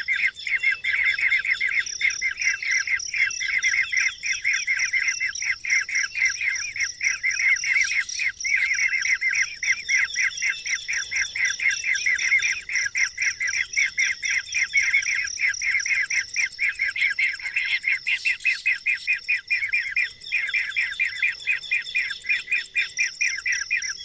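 Bird chirping in a rapid, continuous run of short notes, several a second, with a steady high-pitched tone alongside.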